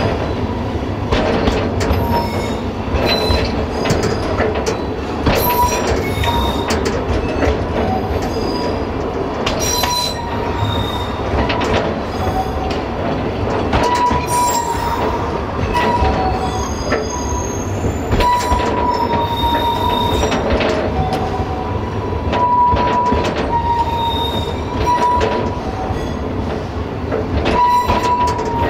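Narrow-gauge train running with a steady rumble, its wheels squealing in short high whines that come and go every few seconds, with scattered clicks over the rail joints.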